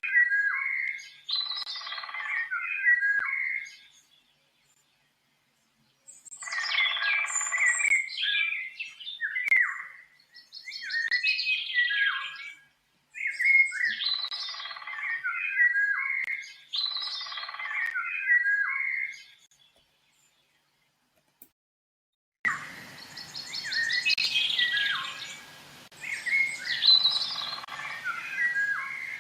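A songbird singing in short, repeated phrases of chirps and warbles, broken by two gaps of complete silence. About three-quarters of the way through a steady background hiss comes in under the song.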